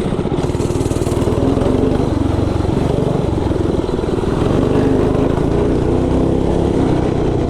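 Mini bike's small engine running hard under throttle while being ridden, its note wavering a little as the throttle changes.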